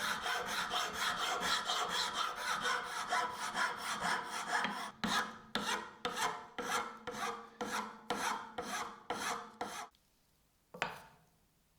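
Hand filing and sanding strokes on wood, rhythmic back-and-forth rubbing that slows to separate strokes of about two and a half a second. The strokes stop shortly before the end, followed by one sharp knock.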